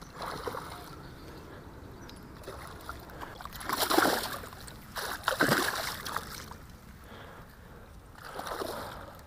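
Water splashing in a shallow creek: two strong bursts a little over a second apart near the middle, then a weaker one near the end, over a low steady background.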